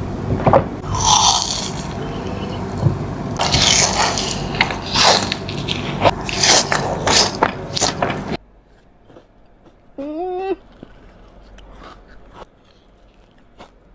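Close-miked eating of a Dubai chewy cookie: crackling crunches, bites and scrapes. Partway through the sound cuts to a much quieter stretch with a short wavering hum, then a few faint chewing clicks.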